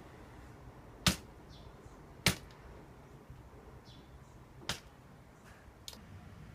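Sharp hard knocks of a cat's paw swatting at a plastic vacuum-cleaner crevice nozzle: three loud strikes, then a fainter click near the end.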